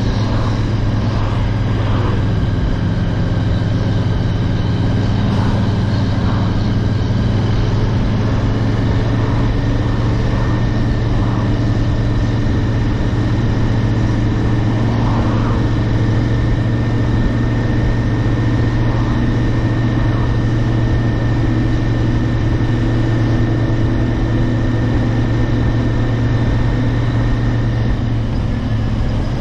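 Royal Enfield Interceptor 650's parallel-twin engine running steadily at an even cruising speed under way.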